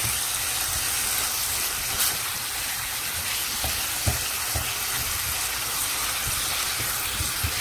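Kidney beans, bell pepper and onion sizzling as they fry in oil in a pan, stirred with a spatula that knocks against the pan a few times.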